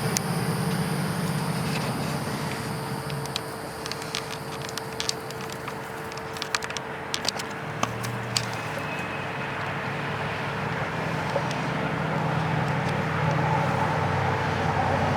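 A steady low hum with a faint steady tone above it, and a scattered run of small sharp clicks in the middle.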